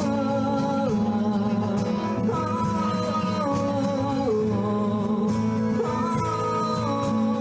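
Live band music: guitar accompaniment under a held, stepwise melody line.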